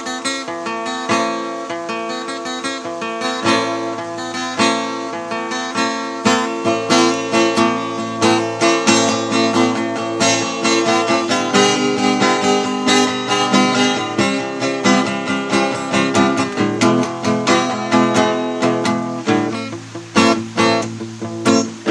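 Solo acoustic guitar playing an instrumental intro, chords strummed and plucked in a steady rhythm, with no voice.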